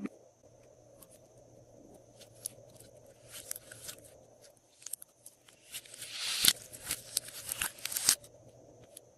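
Glossy slime being worked by hand, giving sticky clicks and crackles, busiest and loudest a little past the middle.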